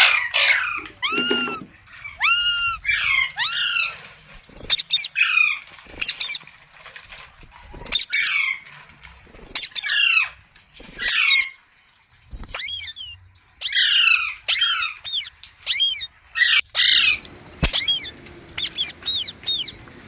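Indian ringneck parakeet giving a long run of short, high-pitched squawking calls, each note arching up and then falling in pitch. The calls come in quick bursts with short pauses between them. A faint steady high whine joins from about 17 seconds in.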